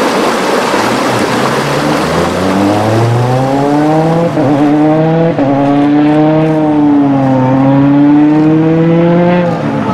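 Rally car engine revving hard under acceleration. Its pitch climbs and drops back abruptly twice at gear changes, then rises and falls with the throttle.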